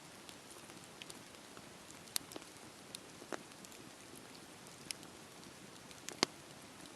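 Wood fire burning: a soft steady hiss with scattered sharp crackles and pops, the loudest pop about six seconds in.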